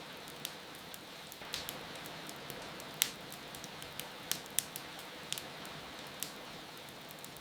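Wood fire crackling in a fireplace, with sharp irregular pops (the loudest about three seconds in), over a steady hiss of rain.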